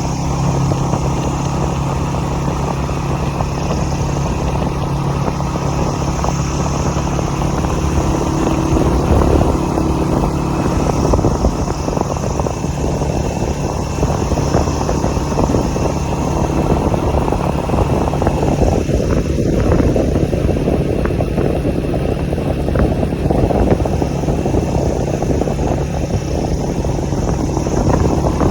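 Single-cylinder Honda CG125 motorcycle engine running at a steady speed.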